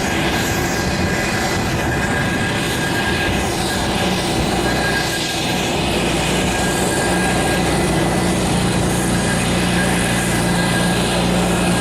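Aircraft engines running loudly and steadily: a rushing noise with thin high whine tones, and a low hum that grows stronger about halfway through.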